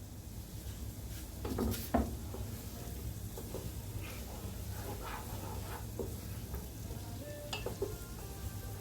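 Onion and garlic sizzling in a soup pot on high heat while a utensil stirs them, with a few sharp clinks of the spoon against the pot, over a steady low hum.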